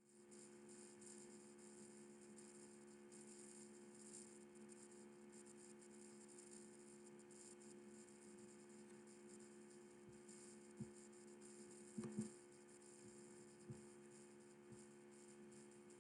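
Near silence: a steady low electrical hum and hiss, with a few faint clicks about two-thirds of the way through.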